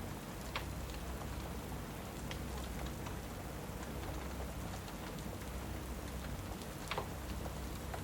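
Steady rain with a crackling fire, its sharp pops scattered through it. The loudest pops come about half a second in and about seven seconds in.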